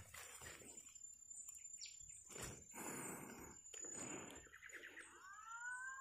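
Quiet outdoor ambience with a thin, steady high-pitched tone and a few faint rustles. Near the end comes one short, rising whistled bird call.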